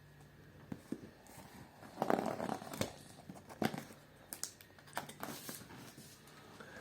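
Packaging being handled and torn open: irregular crinkling, tearing and rustling with sharp clicks, loudest about two seconds in.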